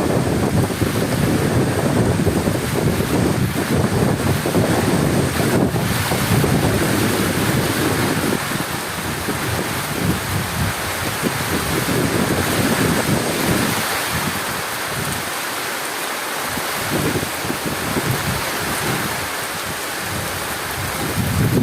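Heavy rain falling as a dense, steady hiss, with a deep rolling rumble of thunder that dies away about halfway through.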